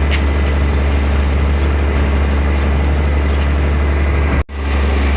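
Tractor-driven TMR feed mixer running steadily under load, a deep constant drone as its new knives chop long-stem baled hay. The sound drops out for an instant about four and a half seconds in.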